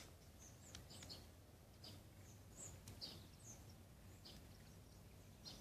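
Near silence with a few faint, short bird chirps scattered through.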